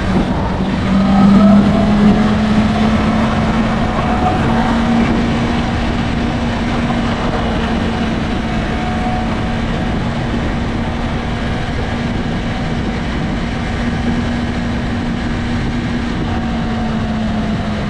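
Honda CB650R's inline-four engine on its stock exhaust, running at a steady, fairly high engine speed over a steady rush of wind and road noise. It is loudest about a second or two in, then holds one even note.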